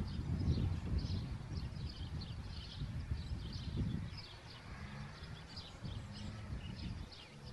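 Small birds chirping in quick, repeated short notes, over a low outdoor rumble that fades away about four seconds in.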